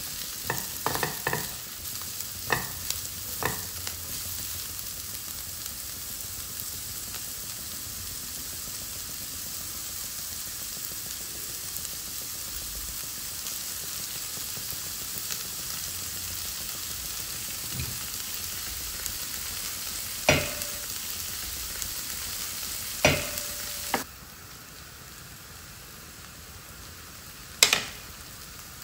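Diced onions and carrots sizzling in oil in a nonstick frying pan, with a silicone spatula stirring and knocking against the pan in the first few seconds. Three sharp taps come later, and the sizzle turns quieter near the end.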